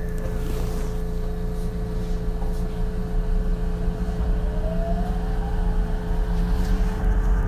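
Ichibata 7000-series electric railcar pulling away and accelerating, heard from inside the car: a steady low running rumble with a constant hum, and the traction inverter's whine rising in pitch about halfway through as the train gathers speed.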